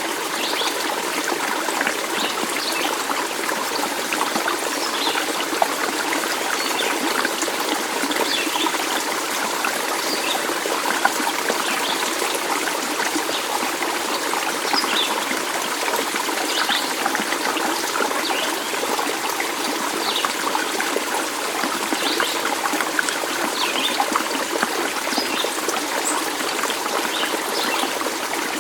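Small stream flowing and trickling steadily, with brief high-pitched notes scattered through it.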